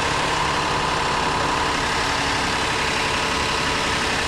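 A newer Hyundai car's engine idling steadily just after a jump start; its battery is dead but the engine runs and the alternator charges at 13.5 to 14 volts.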